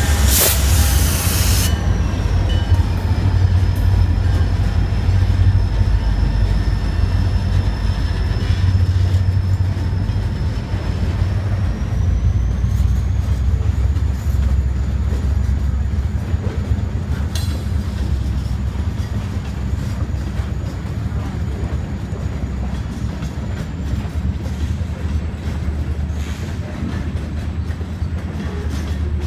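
CSX freight train rolling past a grade crossing: the last locomotive goes by with a short loud rush at the start, then freight cars follow with a steady low rumble of wheels on rail. A thin, high steady wheel squeal rides over the rumble and steps up in pitch about halfway through.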